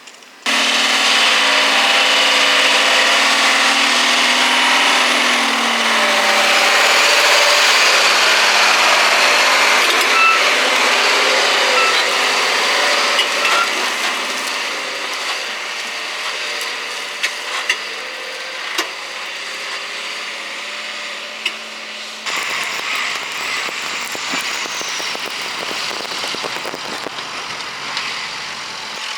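Diesel engine of a heavily loaded sand tipper truck running under load, its pitch dropping about six seconds in. Near the end the sound changes abruptly to a rougher, lower rumble of truck engine and road noise.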